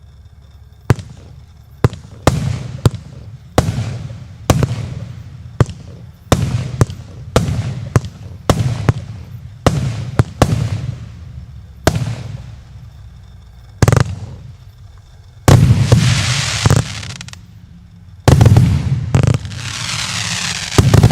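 A fan-type fireworks battery firing shot after shot, with sharp bangs about one every half second to a second, each trailing off. Near the end come two longer stretches of dense crackling.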